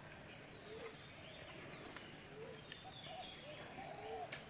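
Faint bird calls: a short low note repeated about once a second, with a few higher chirps.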